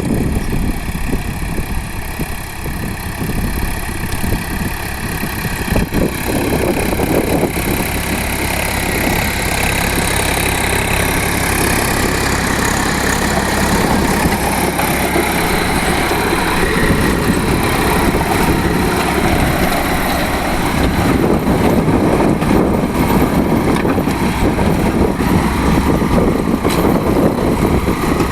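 Swaraj 742 XT tractor's three-cylinder diesel engine running steadily while driving a rotavator, growing louder about seven seconds in and again past the twenty-second mark.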